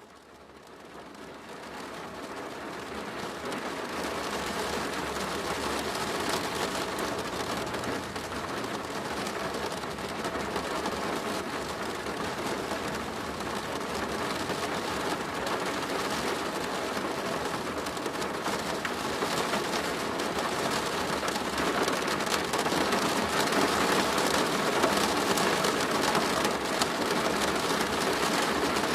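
Rain drumming on a plastic roof in a dense, steady patter of drops, fading in over the first few seconds.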